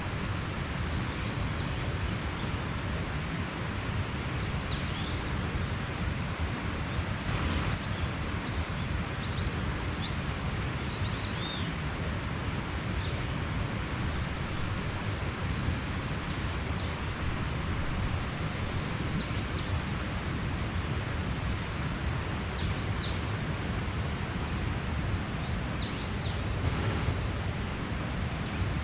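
Mountain stream rushing steadily, with a small bird repeating short, high chirps about every one to two seconds.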